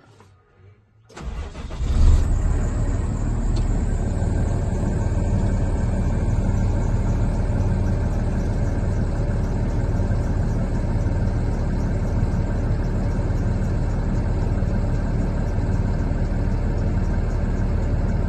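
International MV box truck's Cummins 6.7-litre diesel engine cranking about a second in, catching with a brief flare near two seconds, then settling into a steady idle.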